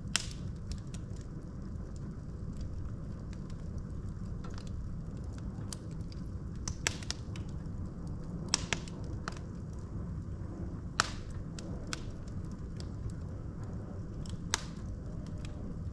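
Wood fire burning in a fireplace: a steady low rumble of the flames with scattered sharp crackles and pops from the burning logs, the loudest pops about 7, 8.5, 11 and 14.5 seconds in.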